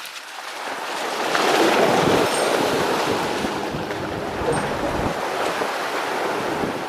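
Sea surf washing in, a swell of noise rising about a second in and staying loud, with strong wind buffeting the microphone.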